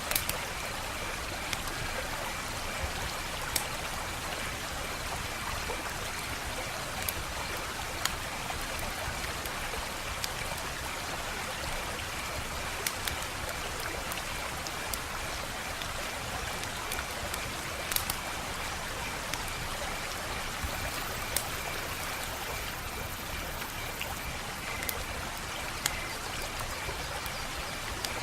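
Wood fire burning with a steady hiss and scattered sharp crackles and pops, roughly one every couple of seconds.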